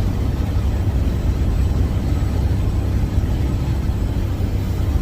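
Steady drone of a Freightliner Cascadia semi truck cruising on the highway, heard from inside the cab: a low engine and road rumble.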